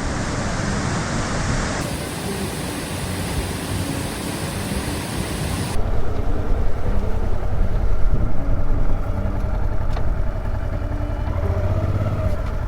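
Wind rush and road noise from a touring motorcycle on the move. The noise changes abruptly twice, and about six seconds in it becomes louder and deeper.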